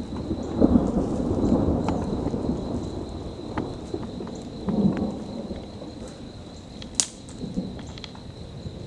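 Thunder rumbling, loudest in the first few seconds and swelling again about five seconds in, with rain falling. A single sharp click comes near the end.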